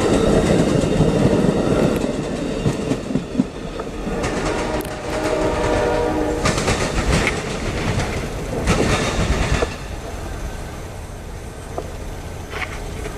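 Amtrak passenger train rolling past, its car wheels clacking over the rails; the noise eases off after about ten seconds as the last cars clear. A train horn sounds for about two seconds near the middle.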